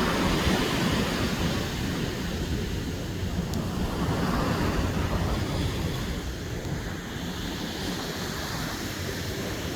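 Ocean surf washing in, with wind buffeting the microphone in a steady low rumble.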